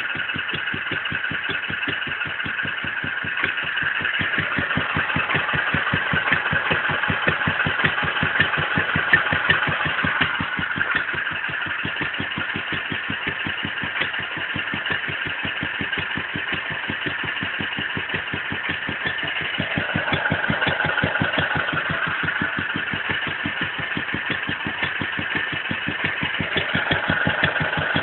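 Wolseley WD2 engine running steadily on its first run after a rebuild, with an even, rapid beat of firing pulses that swells a little in loudness twice.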